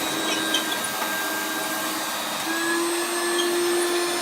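A 1994 Hoover Turbo Power 2 Autosense upright vacuum running steadily, its 800-watt motor giving a whine over an airflow hiss. The whine steps up a little in pitch about halfway through. The drive belt is thought to be broken, so the vacuum is not picking up well.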